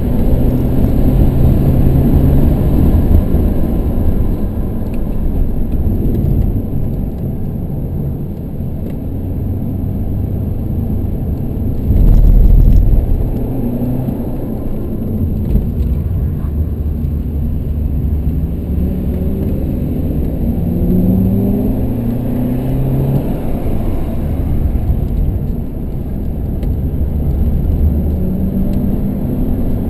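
BMW 118d's diesel engine heard from inside the cabin, accelerating hard with repeated rising engine notes over steady road and tyre noise. About twelve seconds in, a loud low rumble lasts about a second.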